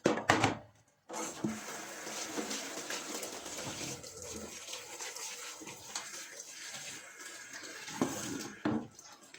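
Running water, as from a kitchen tap, with occasional light knocks of dishes or pans, a couple of them louder near the end.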